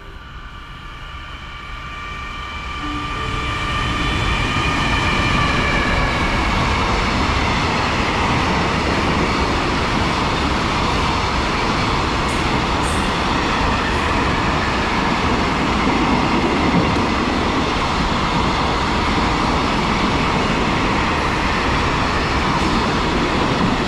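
Freight train of an EF210 electric locomotive hauling container flatcars passing through a station. The sound builds over the first four seconds, with a high whine during the approach. It then settles into a steady, loud rumble of wheels on rail as the container wagons roll by.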